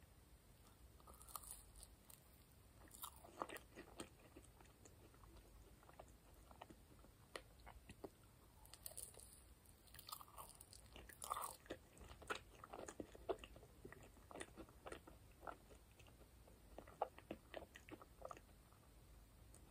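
Close-miked biting and chewing of a toasted marshmallow: quiet, soft crunching with sticky, wet mouth clicks in scattered clusters.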